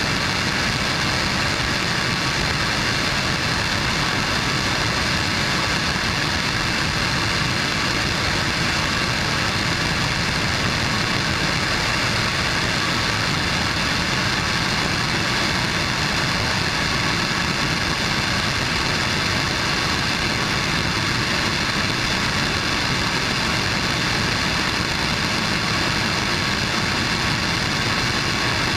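Blue Origin BE-4 liquefied-natural-gas, oxygen-rich staged-combustion rocket engine firing steadily in a test: a continuous, even noise that holds one level throughout.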